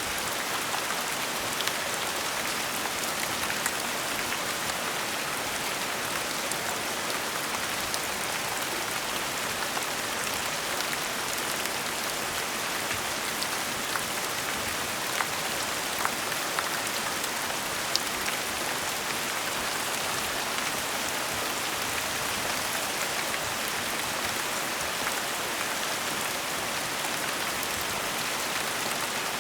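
Gentle rain falling steadily, an even hiss with scattered sharper drop ticks now and then.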